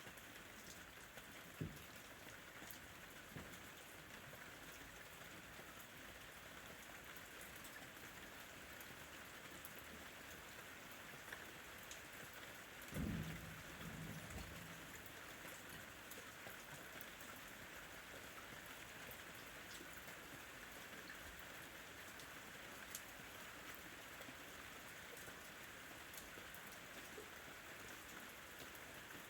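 Faint steady rain with scattered drip ticks, and a brief low rumble of distant thunder about halfway through.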